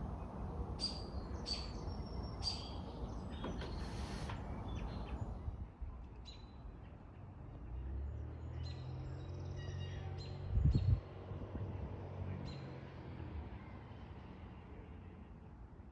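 Backyard songbirds chirping in short, separate calls over a low rumble. A low hum comes in about eight seconds in and fades out around thirteen seconds, with a short low thump near eleven seconds.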